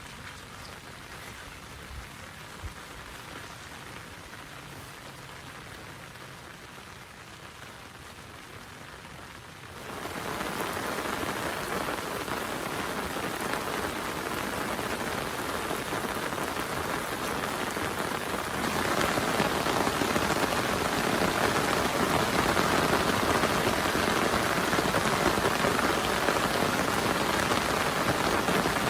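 Heavy rain pattering steadily, turning suddenly louder about a third of the way in and again about two-thirds of the way through.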